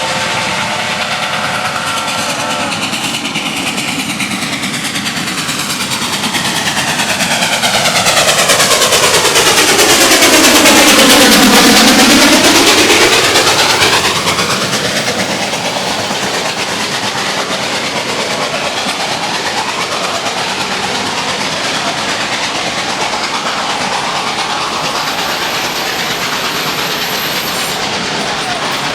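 Reading 2102, a 4-8-4 steam locomotive, and its train pass close by. A chime whistle fades out in the first few seconds, the passing sound is loudest around the middle, and the cars then roll past with steady rail clatter.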